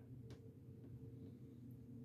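Near silence: a faint steady low hum of room tone, with one faint tick about a third of a second in.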